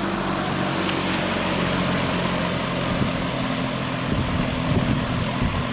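AMC three-metal-blade box fan running on its high setting: a steady rush of air over a low motor hum.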